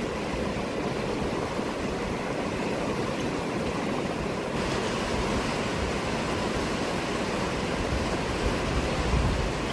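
Steady rushing of a fast-flowing river, an even roar of water with no break, and a brief low rumble near the end.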